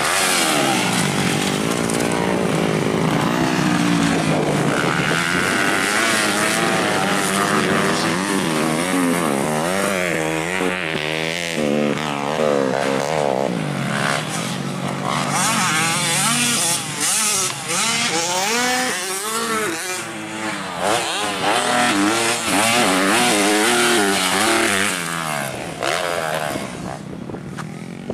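Several motocross bikes running on a dirt track, their engines revving up and down through the gears as they ride and pass, with the pitches overlapping.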